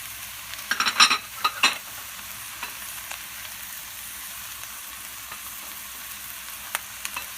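Ground chicken and vegetables sizzling steadily in a skillet, with a quick run of clacks and scrapes from a utensil against the pan about a second in and a few single ticks near the end.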